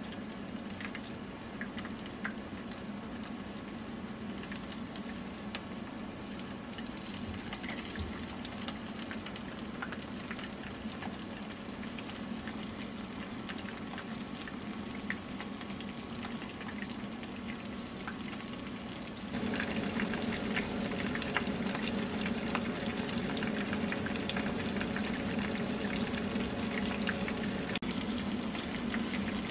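Flour-coated chicken pieces shallow-frying in oil in a frying pan for karaage: a steady sizzle with crackling, which grows louder about two-thirds of the way through.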